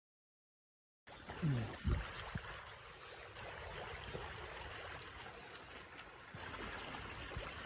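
Floodwater running with a steady rushing trickle, starting about a second in, with a couple of low bumps just after it starts.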